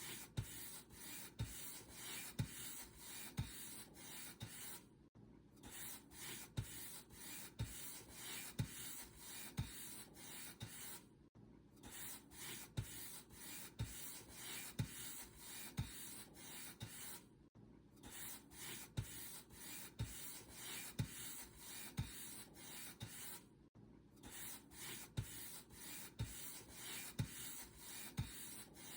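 Paint brush stroking across a surface, with a dry scratchy rub and a soft thump about once a second. The strokes come in runs of about six seconds, each broken by a brief pause.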